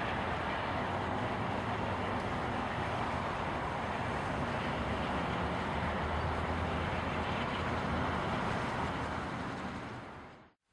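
Steady rolling rumble of a train going by, fading out quickly near the end.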